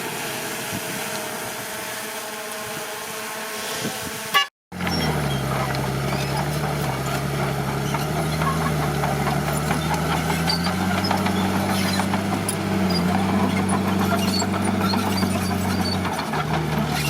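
A steady rushing noise, then after a sudden break about four seconds in, a heavy-equipment diesel engine running steadily, its pitch shifting a little, with scattered crackling over it.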